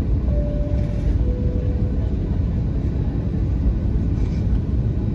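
Steady low rumble inside a Boeing 737-800's passenger cabin, from its engines and airflow. About half a second in, a two-tone cabin chime sounds, a high tone followed by a lower one.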